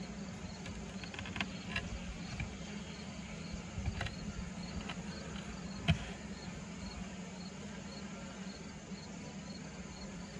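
Honeybees from an opened hive humming steadily, with a few sharp wooden knocks and clicks as the hive parts are handled, the loudest about six seconds in.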